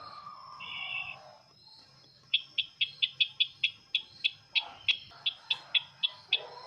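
Sisintar ladang bird calling, the call used as a lure for bird catching: a short whistled note about half a second in, then a quick series of sharp chip notes, about five a second, from about two seconds in.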